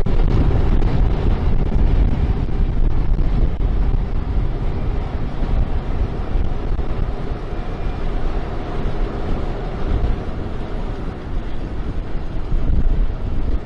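Heavy wind buffeting the microphone, with the steady running of harvest machinery underneath; a little quieter through the middle, louder again near the end.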